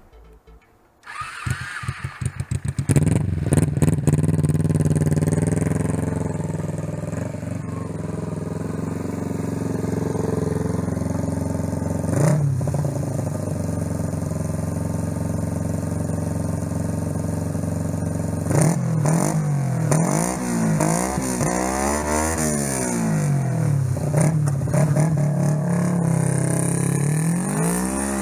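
2004 Kawasaki Ninja 250's parallel-twin engine, fitted with a slip-on exhaust muffler, cranking and catching about a second in. It then idles high and settles, with a short blip of throttle around the middle. In the last third it is revved up and down several times, then drops back to idle.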